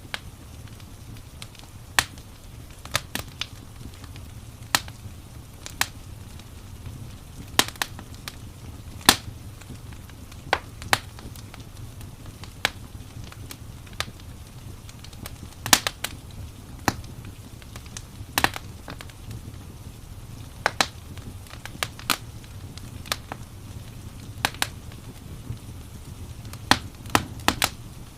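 Wood fire crackling: irregular sharp pops and snaps, a few a second at uneven spacing, over a steady low rumble.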